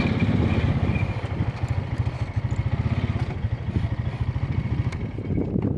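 A Honda's small engine running steadily with a rapid low pulse. It gets a little quieter after the first second and dips near the end.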